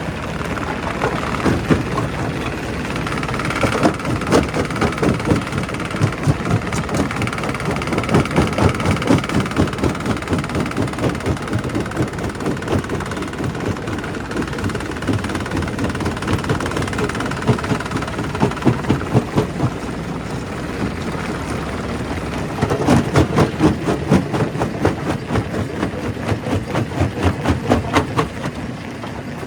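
Quarry primary rock crusher breaking stone: a continuous, irregular clatter of rock knocking and cracking over the steady drone of the machine. The clatter comes in heavier spells about a third of the way in and again near the end, and a high whine runs through the first half.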